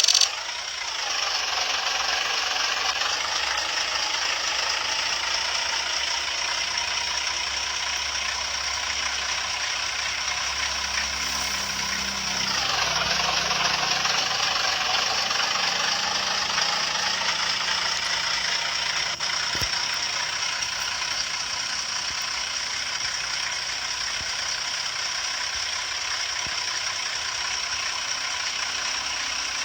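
Construction-vehicle engine running steadily, with a dip and recovery in pitch about twelve seconds in, like easing off and back on the throttle.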